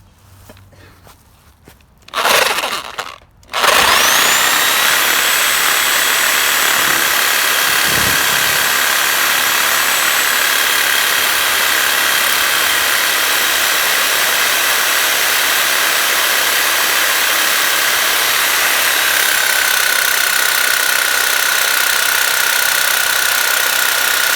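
Electric power saw cutting into a part on the car: a short burst about two seconds in, then the motor spins up with a rising whine and runs steadily under load, its pitch dipping a little near the end.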